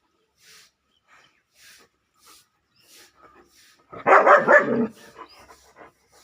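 German shepherd puppy barking: a short, loud burst of barks about four seconds in, with a few softer sounds after it. Before the barks there are faint, evenly spaced breathy sounds.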